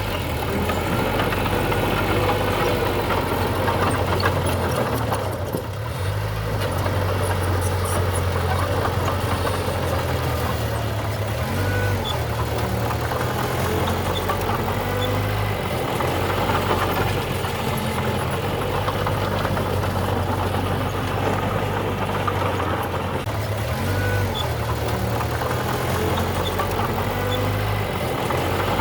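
Heavy diesel engine of construction machinery running steadily with a low, even rumble, its load shifting a little; briefly quieter about five to six seconds in.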